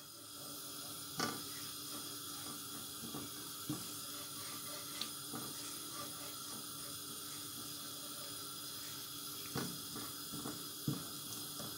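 Ginger-garlic paste and green chillies sizzling gently in hot oil in a wok, a steady soft hiss, with a few light scrapes and taps of a silicone spatula against the pan.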